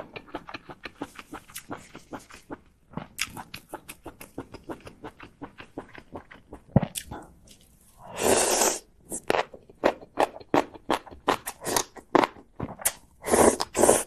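A person chewing and crunching food: a quick run of small wet clicks, broken by louder crunching bites about eight seconds in and again near the end.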